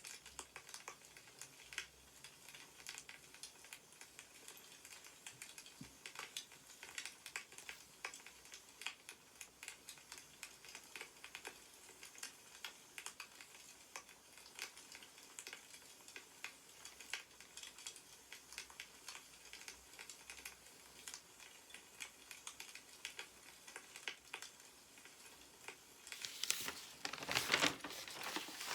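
Wood fire crackling with scattered small pops. Near the end there is a louder rustle of newspaper being handled or a page being turned.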